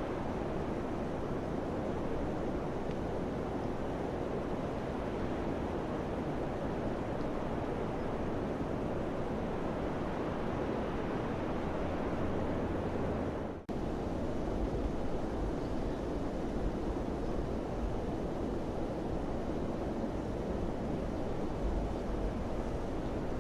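Wind blowing steadily in a continuous rush, which cuts out for a split second about 14 seconds in.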